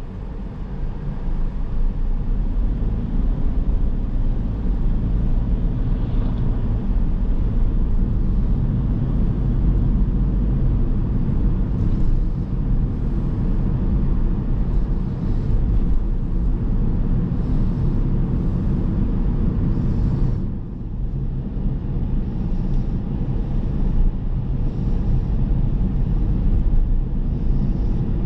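Car driving sound: steady engine and tyre-on-road rumble. It builds up over the first couple of seconds and dips briefly about two-thirds of the way through.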